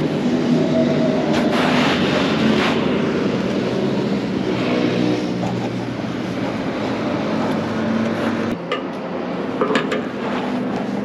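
Royal Enfield Continental GT 650's parallel-twin engine running steadily at riding speed, heard over heavy wind and road noise on the microphone. The engine note dips suddenly for a moment about eight and a half seconds in.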